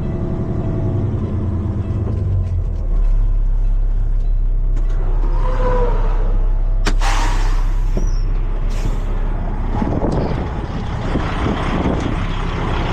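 Heavy truck's diesel engine running steadily, its low rumble getting stronger about two and a half seconds in. About midway there is a sharp click and a short hiss of air, like an air brake releasing.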